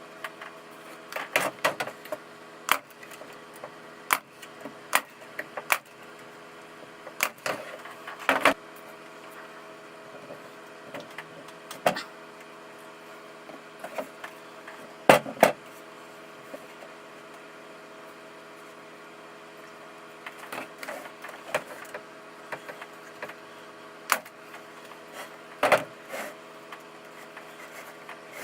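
Irregular sharp clicks and knocks of a clamp being fitted and pine pieces being handled on the bench, over a steady low hum. The loudest knock comes about halfway through.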